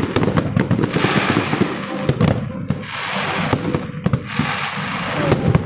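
Aerial fireworks going off in rapid succession: a dense run of bangs and crackling, with several shells bursting close together.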